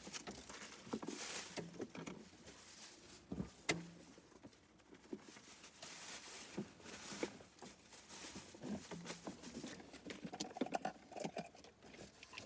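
Rustling and light knocks of trash being gathered up by hand and dropped into a bag, in irregular bursts with a few sharper clicks.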